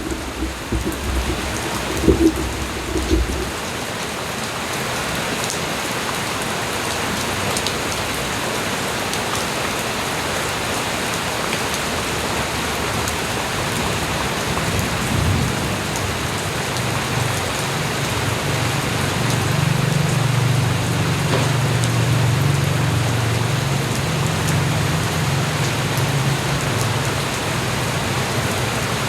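Steady rain falling and pattering on surfaces, an even hiss with occasional drop ticks. A few low thumps come in the first few seconds, and a low rumble swells and fades through the second half.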